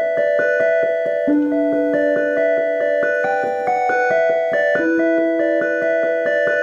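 Solo piano-sound keyboard playing a quick, even pattern of repeated notes over held low notes, with the bass note changing about a second in and again near five seconds in.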